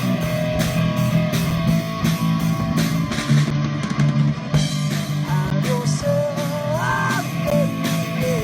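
Rock band playing: an electric guitar carries a lead line over bass guitar and a drum kit, with a guitar string bend about seven seconds in.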